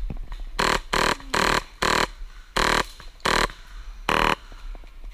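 HPA airsoft rifle dry-firing in seven short full-auto bursts, with no BBs loaded, which makes it sound different from live fire.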